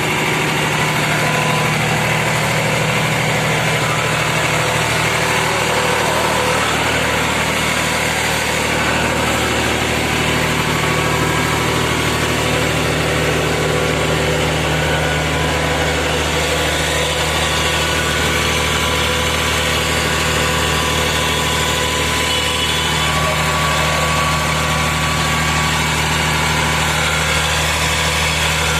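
Tractor diesel engine idling steadily, with a slight shift in its tone about ten seconds in and again near the end.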